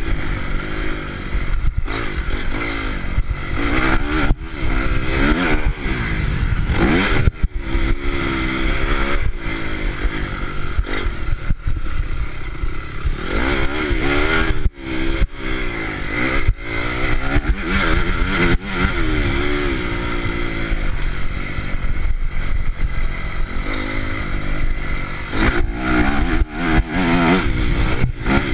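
Honda CRF motocross bike's four-stroke single-cylinder engine revving up and down again and again as it is ridden, the pitch climbing and dropping with throttle and gear changes, with scattered knocks and clatter.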